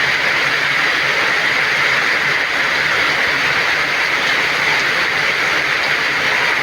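Heavy rain falling steadily in a downpour, an even, loud hiss of dense drops.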